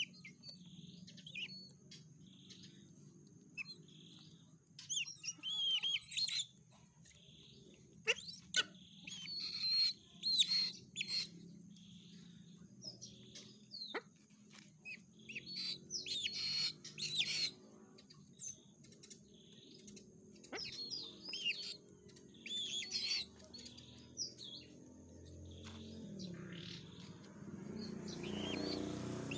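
High chirping bird calls in short clusters every few seconds, over a faint steady high whine and a low hum.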